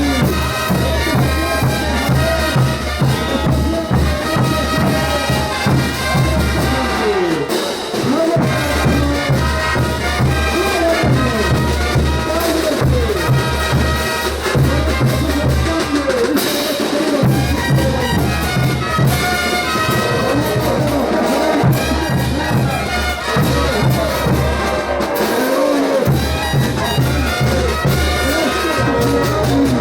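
Bolivian brass band playing ch'uta dance music: trumpets and other brass over a steady bass drum and percussion. The low bass drops out briefly three times, about eight, seventeen and twenty-six seconds in.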